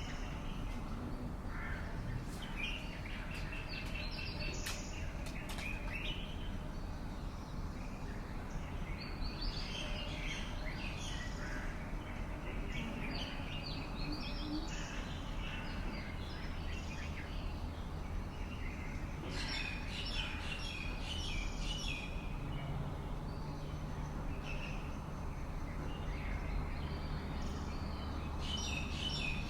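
Several birds chirping and calling in short, repeated phrases over a steady low background rumble, with dense flurries of chirping about twenty seconds in and again near the end.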